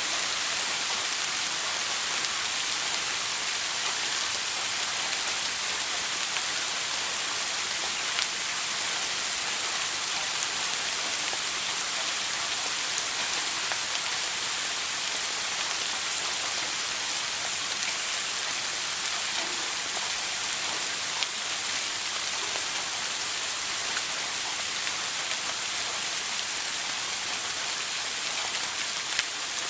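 Shower water spraying steadily: an even hiss of falling water with a few faint drop ticks.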